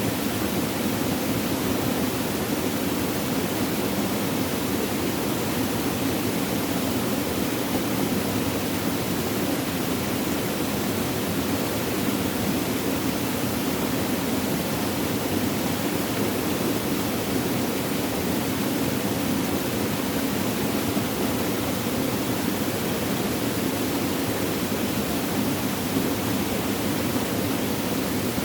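Flowing, babbling water making a steady, unbroken rushing sound.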